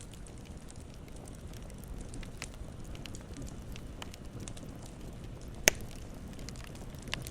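Campfire burning with a steady low rumble and scattered wood crackles, one sharp loud pop nearly six seconds in and a smaller one near the end.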